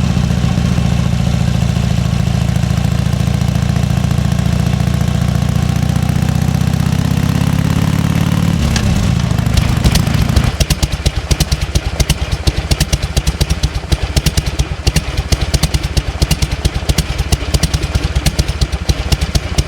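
1998 Harley-Davidson Fat Boy's Evolution 1340 cc V-twin running steadily at raised revs, then dropping off about halfway through and settling into a slow idle of separate, uneven firing beats: the V-twin's potato-potato lope.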